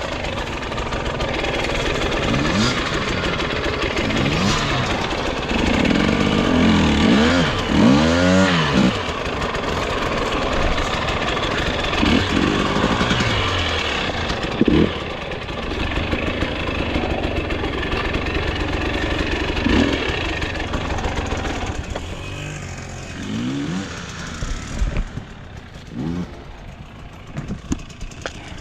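Dirt bike engine revving up and down in repeated throttle blips while riding rough trail, quieter over the last few seconds.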